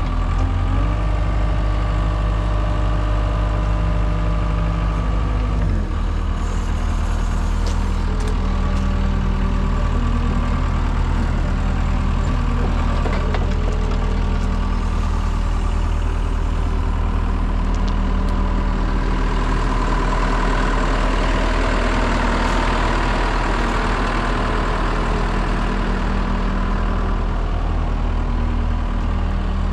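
2004 Case 90XT wheeled skid steer's diesel engine running steadily, its speed dropping about six seconds in. A broader, higher-pitched machine noise swells in the middle of the stretch and then eases off.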